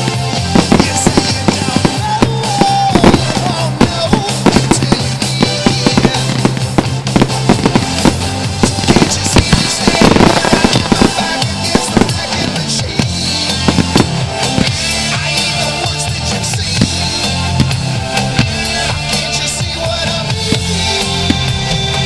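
Aerial fireworks display finale, with many rapid bangs and crackles of bursting shells over music with sustained low bass notes.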